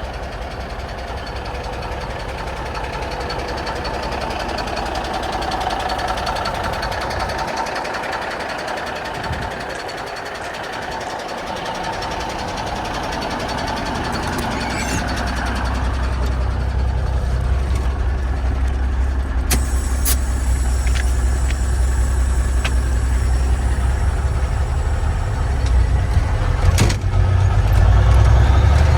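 Kenworth W900 dump truck's diesel engine running, with a deep low rumble that comes in about halfway and grows louder. A few sharp clicks sound in the second half.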